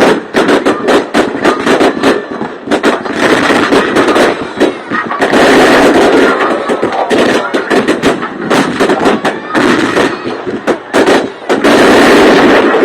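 Fireworks going off in a dense, rapid barrage of bangs and crackles, several a second, thickening into a continuous crackle around five seconds in and again near the end.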